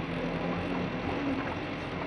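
Mitsubishi Canter truck's engine running steadily, with a low hum and road or mechanical noise.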